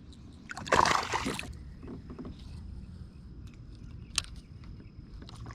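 A short splash of water beside a kayak about a second in, followed by low steady background noise and a single sharp click near the end.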